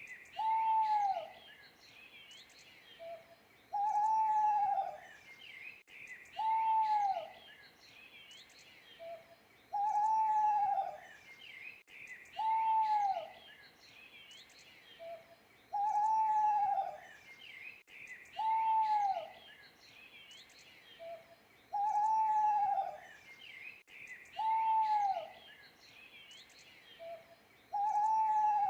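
An owl hooting: two hoots in a row, each a note that arches and falls, repeated about every six seconds with a short faint hoot between pairs. Small birds chirp throughout.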